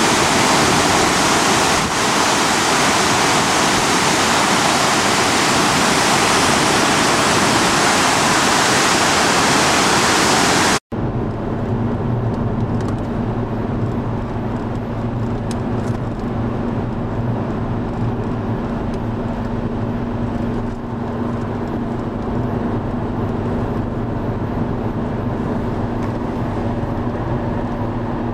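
Flooding river water rushing, loud and steady. About eleven seconds in it cuts off abruptly, and a quieter steady motor hum with a low drone takes over.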